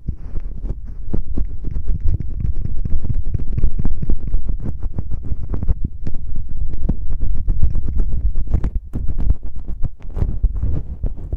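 Fingers rubbing, scratching and tapping directly on a microphone in finger ear-cleaning ASMR. The sound is a close, deep rumble with a fast, irregular run of taps and scratches, briefly softer around eight and ten seconds in.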